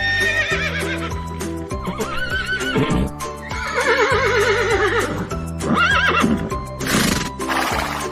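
Horse whinnying several times, each call a quavering, wavering neigh, over background music with a steady beat.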